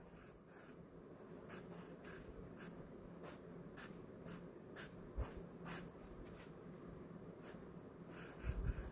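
Ink pen scratching across diary paper in short, irregular strokes as lines and letters are drawn. A soft low thump about five seconds in and a couple more near the end.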